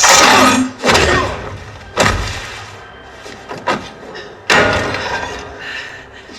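A series of heavy slams and crashes from a film's action sound effects: big hits about a second apart at the start, another about four and a half seconds in, each trailing off, with smaller knocks between.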